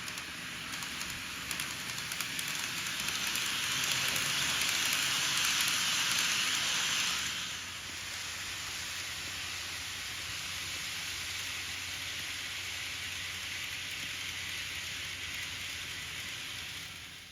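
N-gauge model Shinkansen train running on its track, a steady hissing rumble of wheels and motor. It grows louder until about seven seconds in, as if passing close, then falls back to a steady, quieter run.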